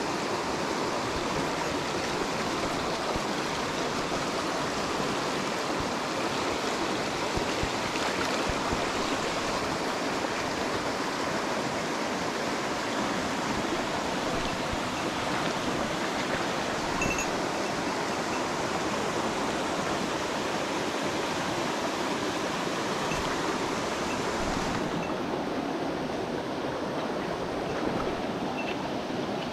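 Mountain stream rushing steadily, an even, unbroken wash of running water; its highest hiss thins a little near the end.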